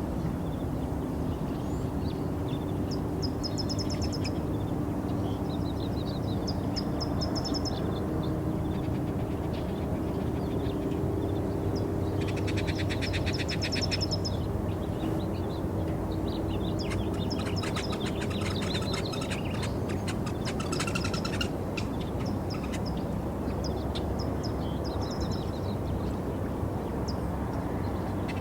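Birds chirping in short repeated high notes, with two longer rapid trills partway through, over a steady low background rumble.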